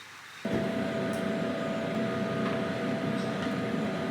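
A steady machine hum with one constant tone running through it starts abruptly about half a second in and holds even.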